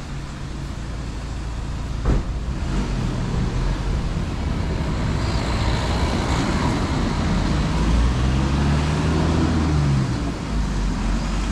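A motor vehicle's engine running close by, growing louder and shifting in pitch in the second half as it revs and pulls away. A single knock about two seconds in.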